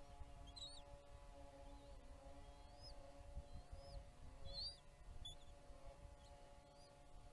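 Faint, short high-pitched bird chirps, a few each second or so, over a steady electrical hum and a low rumble.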